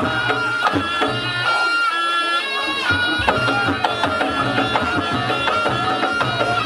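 Reog Ponorogo music: a reedy slompret shawm plays a held, wavering melody over a repeating drum pattern with sharp percussion strokes.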